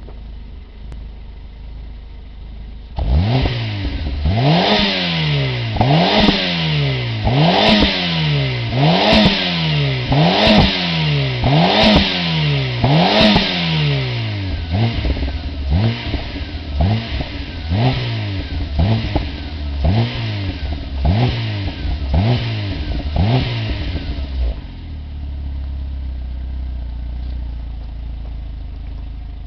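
Citroen C2 1.4 8v four-cylinder petrol engine through an Ashley cat-back exhaust: idling, then blipped repeatedly, each rev rising and falling, first in about seven strong revs and then in a run of quicker, shorter blips, before settling back to idle near the end.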